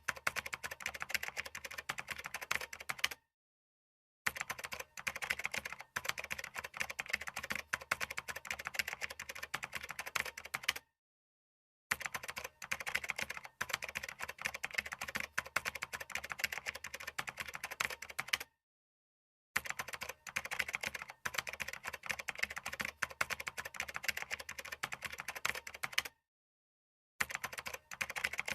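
Fast, continuous typing on a computer keyboard: a dense run of key clicks, broken four times by about a second of complete silence, roughly every seven and a half seconds.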